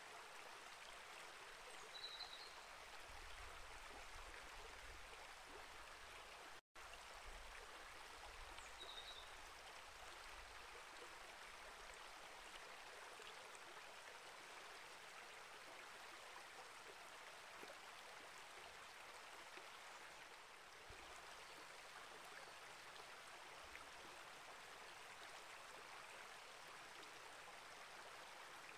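Small rainforest creek running, a faint steady rush of water. Two brief high chirps come about 2 and 9 seconds in, and the sound cuts out for an instant about seven seconds in.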